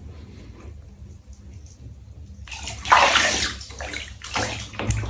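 Water splashing and sloshing as a cat is washed by hand in a bath. It starts about halfway through, after a quiet stretch.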